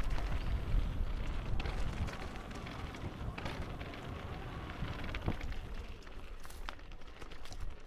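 Footsteps crunching on a forest path, with scattered sharp ticks and a low rumble underneath that is strongest in the first couple of seconds.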